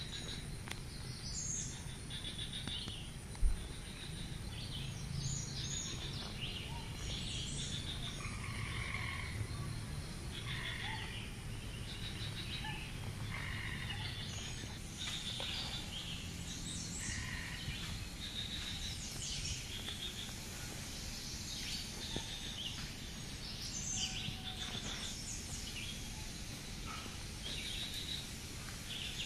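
Wild birds chirping and calling in short, scattered notes over a steady low rumble, with a single sharp thump about three and a half seconds in.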